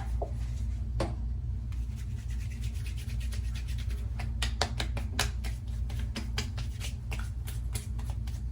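Hands rubbing and patting after-shave onto the face: a run of soft, irregular skin slaps and rubs, coming more often from about halfway on, over a steady low hum.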